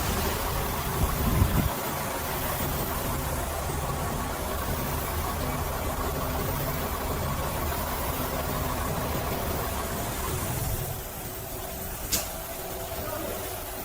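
Truck engine idling steadily, with a few knocks in the first couple of seconds. The low engine note drops away about eleven seconds in, and a single sharp click follows a second later.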